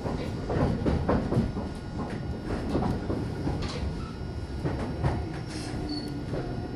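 Meitetsu Bisai Line electric train, a steady low rumble with irregular knocks and clanks throughout and a couple of brief high tones in the second half.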